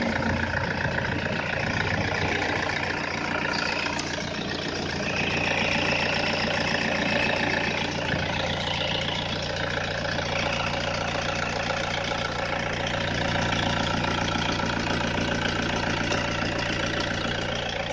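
Toyota Innova diesel engine idling steadily.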